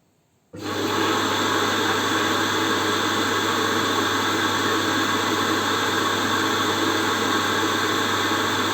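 Ecovacs T10 Omni docking station's auto-empty suction motor starting abruptly about half a second in and running steadily with a low hum, sucking the robot vacuum's dustbin out into the station.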